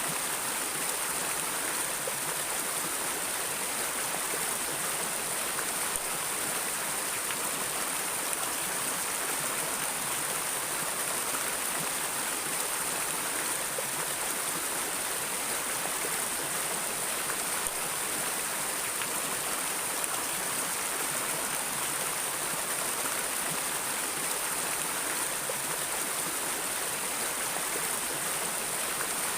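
Steady rushing of a flowing stream, an even hiss with no breaks or changes.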